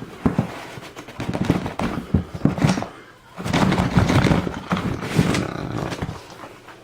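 Handling noise from firework packages being moved and set down: irregular knocks and clicks with rustling in between, in two busier stretches.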